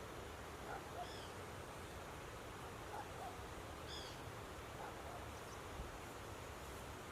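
A bird calling over a steady rush of water. It gives short two-note calls about every two seconds, and a higher, thin chirp comes twice, near the start and about halfway.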